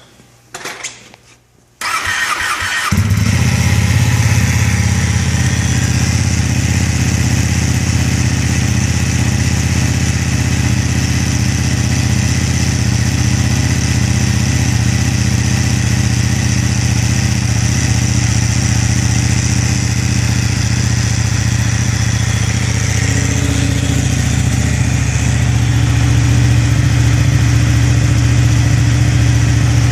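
Ducati 899 Panigale's Superquadro V-twin started about two seconds in and then idling steadily through a Termignoni full exhaust, a little louder over the last few seconds.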